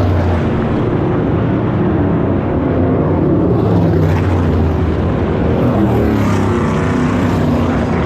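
Sprint car engines running steadily and loudly, several engine tones overlapping with small shifts in pitch.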